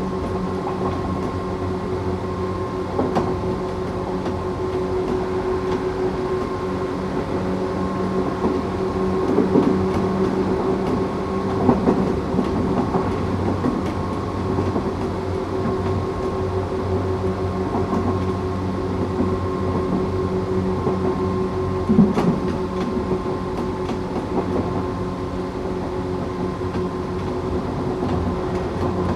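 Tokyu 8500 series electric train with Toyo Denki traction motors running along the line: a steady rumble with a constant motor and gear hum of several held tones. Wheels knock over rail joints a few times, most sharply about 22 seconds in.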